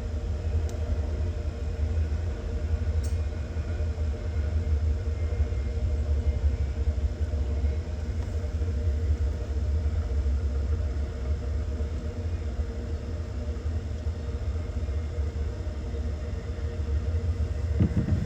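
Norfolk Southern freight train rolling past: a steady low rumble with a faint even hum above it, unchanged throughout.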